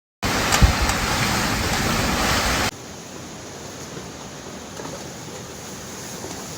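Hurricane wind and rain as loud steady noise, with one sharp knock about half a second in. It cuts off suddenly after about two and a half seconds to a much quieter steady hiss of wind and rain.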